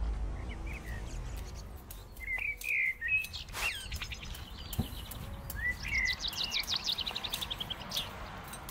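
Garden songbirds chirping, with a quick trill of repeated notes falling in pitch around the middle. A low rumble fades out in the first two seconds, and a few sharp clicks and knocks come from work in the garden.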